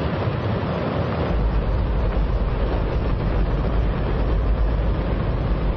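Space Shuttle main engine firing on a test stand: very loud, steady rushing noise with a deep rumble that grows heavier about a second in.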